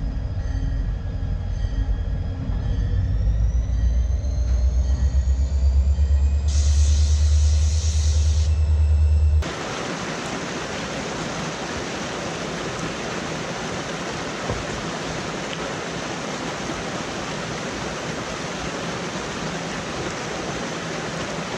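A train passing, with a heavy low rumble and thin high squealing tones that rise in pitch. It cuts off abruptly about nine seconds in, replaced by the steady rush of a small waterfall pouring into a rocky stream pool.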